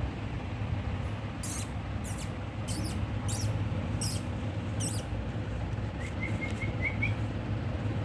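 Pet parrots giving six short, very high squeaks about two-thirds of a second apart, then a quick run of soft rising chirps, over a steady low hum.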